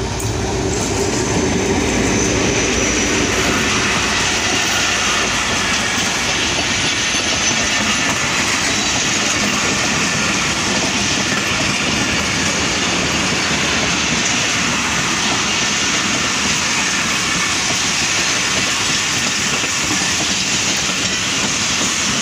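Pakistan Railways HGMU-30 diesel locomotive running past with a low engine rumble in the first seconds, then a long rake of passenger coaches rolling by close at hand with steady wheel clatter on the rails.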